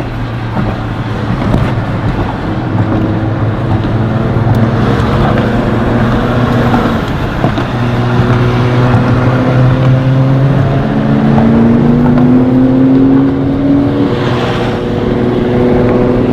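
Nissan R34 GT-R's RB26 twin-turbo straight-six, stroked to 2.8 litres, running under way at moderate, fairly steady revs. In the second half the revs climb smoothly for a few seconds, then drop back.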